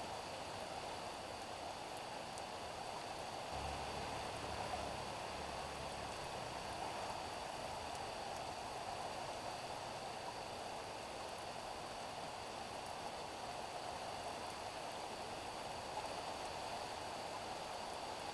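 Steady rain falling on a street, an even hiss of drops. A low hum joins in for a couple of seconds about three and a half seconds in.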